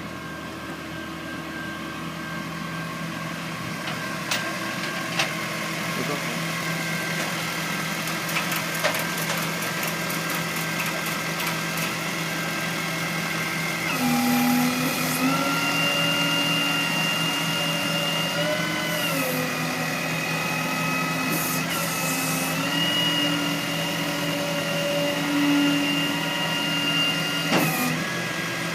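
A motor vehicle engine idling steadily. About halfway through, a second pitched engine or motor sound comes in, stepping up and down in pitch a few times, and it cuts off near the end.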